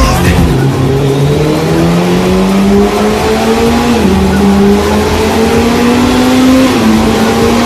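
An engine accelerating under load through the gears. Its pitch climbs steadily, drops sharply at each upshift about four seconds in and again near the end, then climbs again.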